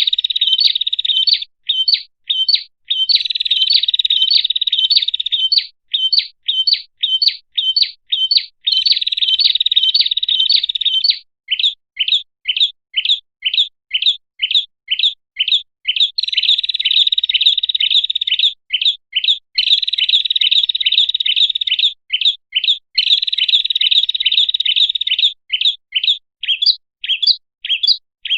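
Prinia (prenjak) calls played as a bird lure. Fast chattering trills lasting two to three seconds alternate with runs of separate sharp chirps, about two to three a second.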